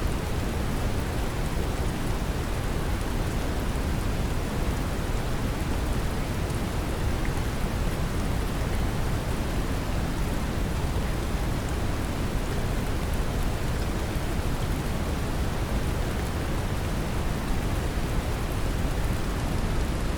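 Steady brown noise, a deep, even rumbling hiss, mixed with the patter of gentle rain.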